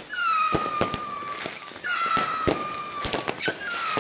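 Fireworks going off: shrill whistles that drop quickly in pitch and then hold steady, one about every second and a half, among sharp bangs and crackles.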